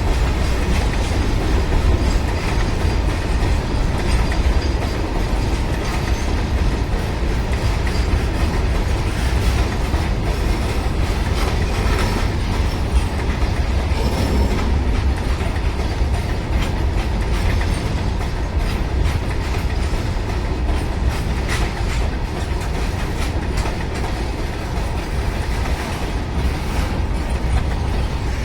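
Loaded freight wagons of an Indian Railways goods train rolling along the track. A steady low rumble runs under wheels clacking over the rail joints, easing off slightly near the end.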